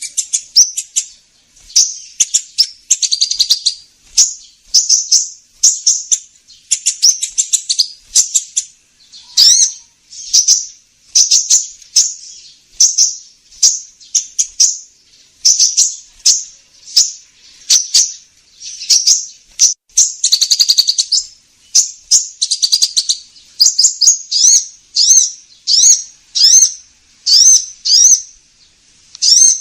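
Sunbird ('kolibri ninja') calls used as a bird lure: high, sharp chirps and short trills repeated in quick clusters about once or twice a second, with some downward-slurred notes near the end.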